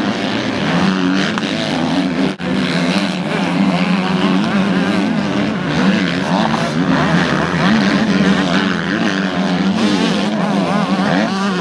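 Motocross bike engines racing, revving up and falling back over and over as several bikes run the track, with a brief dropout about two seconds in.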